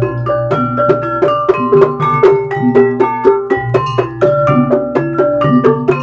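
Ebeg accompaniment music: fast, continuous runs of struck mallet-percussion keys, about five or six notes a second, over a low sustained tone, with drum strokes mixed in.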